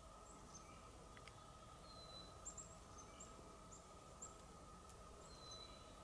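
Faint forest birdsong: scattered short, high chirps every second or so, with two thin drawn-out whistles about three seconds apart, over a quiet hush and a faint steady hum.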